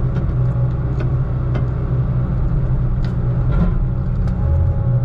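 Heavy diesel engine of logging equipment running steadily, with several short light knocks and clanks scattered through.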